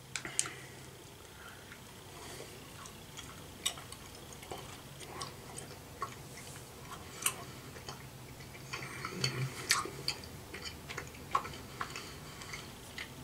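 A person chewing a sour gummy candy with mouth closed: soft, irregular wet clicks and smacks, several a second at times.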